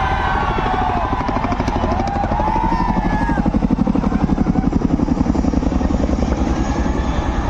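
Helicopter passing low overhead, its rotor thudding in a fast even beat that grows loudest in the middle and then eases. A crowd shouts and calls over it.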